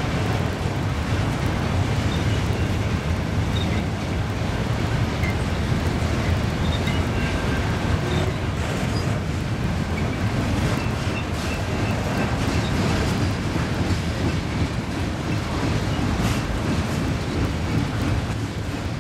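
Freight train cars rolling past on the rails: a steady, loud rumble of wheels on track.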